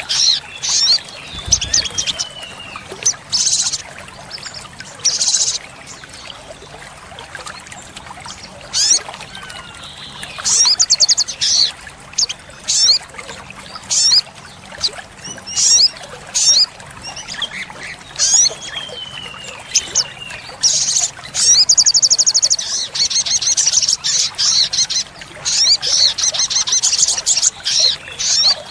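Olive-backed sunbird singing in repeated bursts of sharp, high chirps and very fast trills, broken by thin whistles that glide downward. The fastest, loudest trilling comes in the second half.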